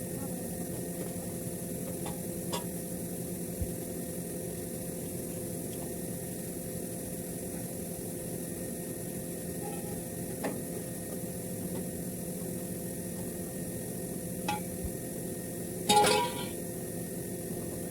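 Steady hum and hiss with a few light metallic clinks of tools on metal, and a louder metal clatter near the end.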